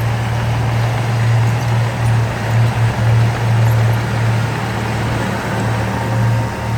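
Heavy diesel construction machinery engine running steadily under load, a low drone with brief dips.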